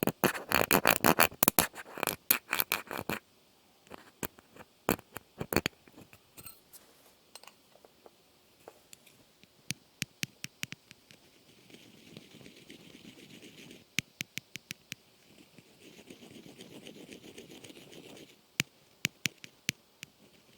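Close-miked ASMR trigger sounds: rapid scratching and tapping for about the first three seconds, then scattered sharp clicks and two soft rubbing passes of about two seconds each.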